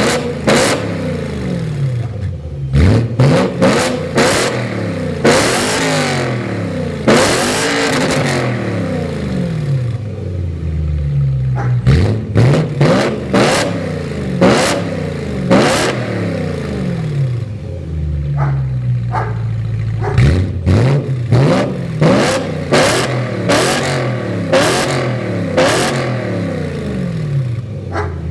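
BMW M3 convertible engine through a Remus sport exhaust with an X-pipe, revved from idle in many quick throttle blips, each rising and dropping back, with two longer, higher revs about five and seven seconds in.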